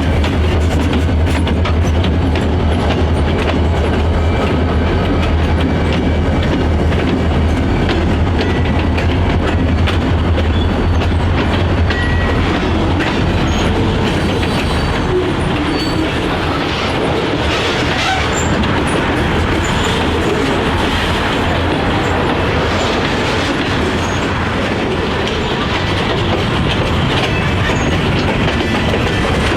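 Freight train rolling past. A heavy low diesel drone dominates for about the first half, then eases as the cars go by with a steady clickety-clack of wheels over rail joints.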